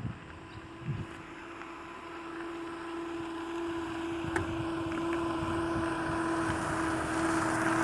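A motor vehicle's engine hum growing steadily louder as it approaches, with a steady low drone and rising road noise.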